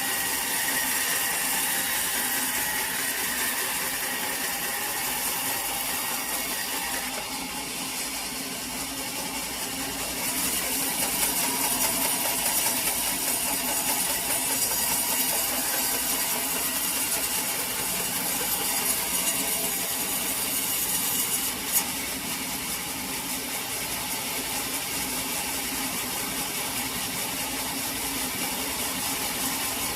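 Sawmill saw running steadily and cutting through wood, a dense continuous machine noise that eases for a few seconds then rises again. A single sharp click about two-thirds of the way through.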